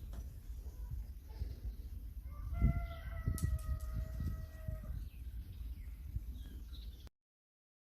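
A rooster crowing once, a single long held call starting about two and a half seconds in and lasting about two seconds, over a steady low rumble. All sound cuts off abruptly near the end.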